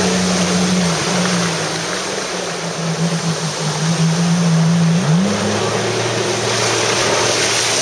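Personal watercraft (jet ski) engine running with a steady drone whose pitch sags and then climbs again about five seconds in. It sits under a dense, loud hiss of rushing water and spray.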